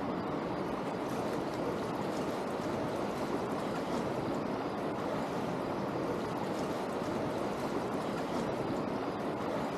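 Steady rushing of fast river water, the Niagara River rapids running through the gorge, an even noise that does not change.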